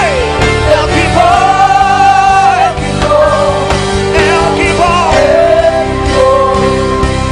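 Gospel worship song: a solo voice sings long melodic lines over a sustained keyboard pad and a steady beat, holding one long note with vibrato for about a second and a half, about a second in.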